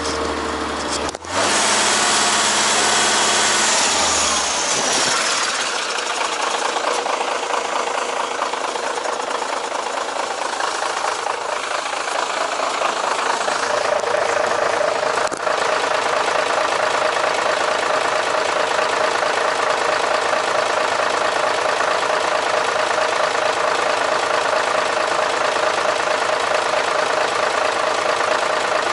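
Mercedes-Benz SK 3234 truck's V6 diesel engine running steadily. About a second in there is a brief break, then a few seconds of extra high-pitched noise over the engine before it settles into steady running.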